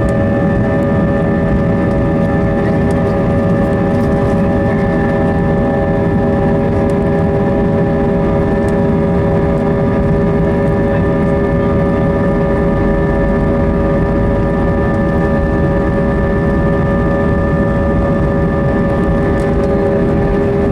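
Airbus A320's IAE V2527-A5 turbofan engines running steadily at high thrust, heard inside the cabin: a low rumble with several steady whining tones, the strongest low in the range, holding pitch throughout.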